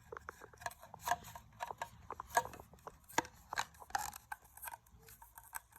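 Plastic attachments of a cordless stick vacuum being handled and fitted together: an irregular run of small clicks, taps and scrapes, a few sharper clicks among them.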